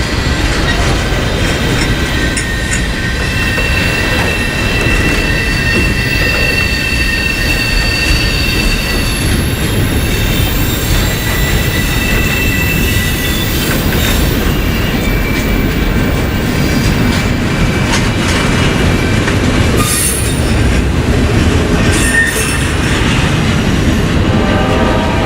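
Freight train cars rolling past close by: a steady loud rumble of wheels on rail with thin, high-pitched wheel squeals that come and go, strongest in the first half.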